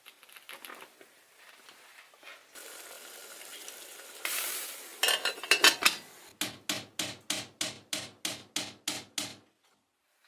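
Kitchen work with cookware: light clinks of utensils against pots and dishes, a steady hiss, a brief noisy rush, then about a dozen quick even strokes, some four a second, that stop about three seconds later.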